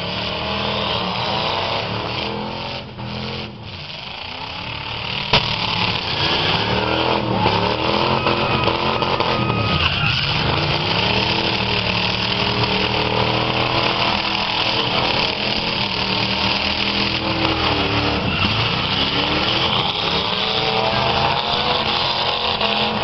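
Several V8 demolition derby cars' engines revving up and down, overlapping, as the cars ram one another, with one sharp crash about five seconds in.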